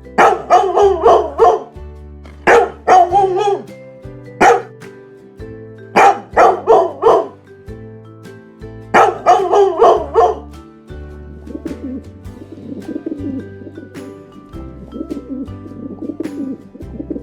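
A dog barking in quick runs of several barks at a time, over background music. About eleven seconds in the barking gives way to softer, lower bird calls.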